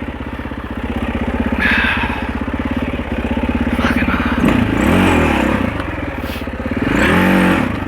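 Husaberg 650 four-stroke dirt bike engine idling with a steady beat, blipped up and back down twice: once about halfway and once near the end.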